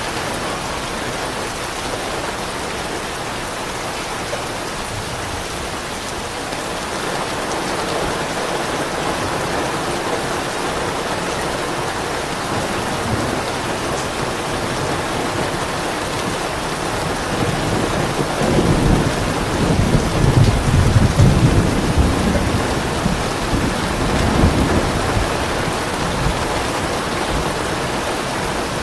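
Steady rain falling, with a low roll of thunder that builds about two-thirds of the way through, rumbles for several seconds and fades.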